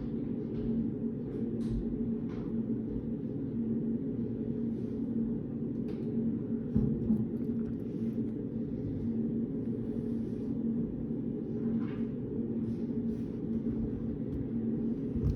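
Study-room background noise: a steady low hum, with scattered faint light clicks and a soft thump about seven seconds in.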